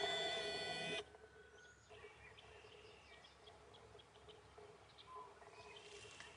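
A loud, steady sound made of many tones fills the first second and cuts off suddenly. Then faint songbird chirps come and go over quiet outdoor background noise.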